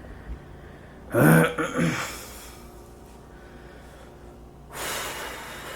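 A man's short gasping grunt about a second in, then a long breathy exhale near the end.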